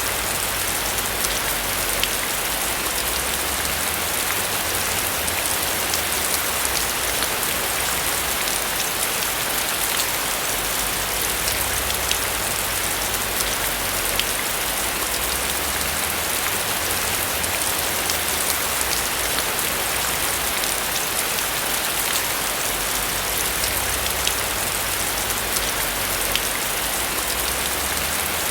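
Steady rain falling on a roof, a dense even hiss with faint scattered drop ticks over a low rumble.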